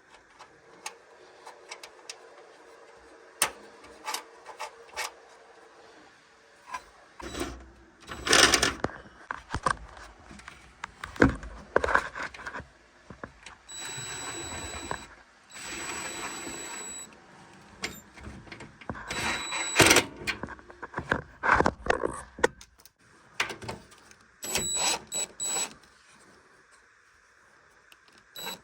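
Clatter and knocks of washer parts being handled during disassembly, with a few short runs of a power screwdriver whining as it drives screws.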